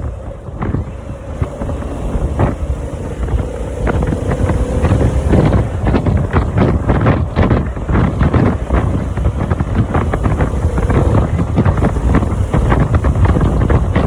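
Heavy wind buffeting the microphone of a Harley-Davidson motorcycle at riding speed, in rapid gusts. Under it, a faint steady hum from the motorcycle rises slightly in pitch a couple of seconds in.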